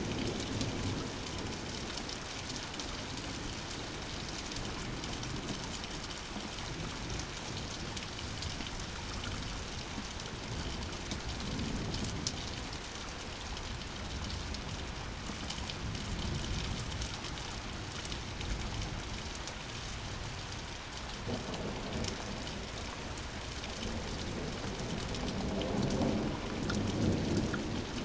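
Steady rain falling, with thunder rumbling low underneath: brief rumbles near the start and about halfway, then a longer rumble that builds and grows louder near the end.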